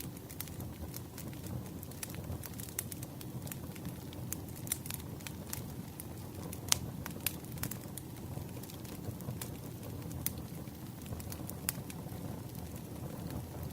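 Campfire burning: a steady low rush with frequent sharp crackles and pops of burning wood, one louder pop about halfway through.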